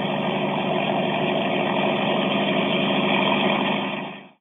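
Helicopter running steadily, an engine drone with a high turbine whine over it, until the sound drops away quickly about four seconds in.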